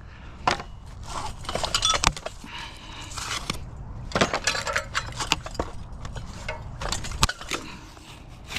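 Irregular clinks, knocks and rattles of hard objects being handled and set down.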